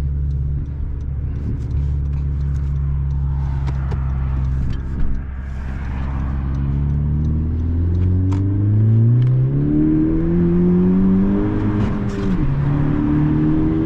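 Honda Civic Si's turbocharged four-cylinder engine and exhaust heard from inside the car: steady cruising for about five seconds, then revving up hard under full acceleration. About twelve seconds in the pitch drops suddenly at an upshift, then holds and starts climbing again.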